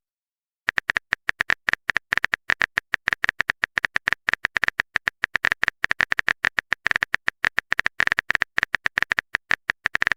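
Phone keyboard typing sound effect: a rapid run of short, sharp clicks, about eight to ten a second, starting just under a second in.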